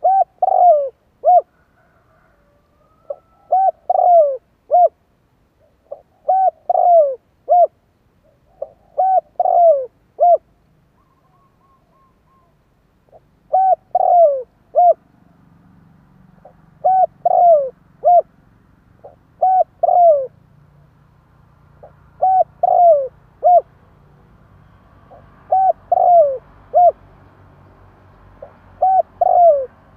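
Spotted dove cooing: short phrases of three or four coos, repeated every two to three seconds, with a pause of about three seconds near the middle.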